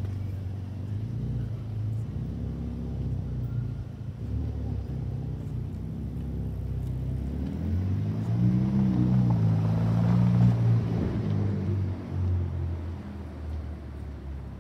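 A car engine running low and steady, then revving up with a rising pitch about eight seconds in. It is loudest a couple of seconds later and then fades away.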